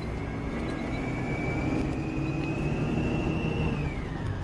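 Volvo B9R coach heard from inside, its engine and running gear giving a steady low rumble. Over this a single high whine climbs slowly, then drops in pitch about four seconds in.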